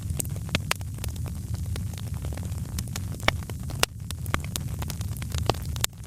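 Wood fire crackling in a fireplace: irregular sharp pops and snaps over a steady low rumble of burning flames.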